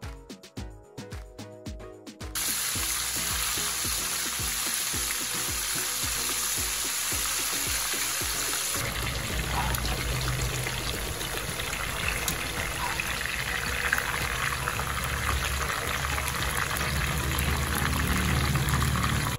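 Tuna steaks frying in hot oil in a pan: a steady sizzle that starts about two seconds in and changes tone about halfway through.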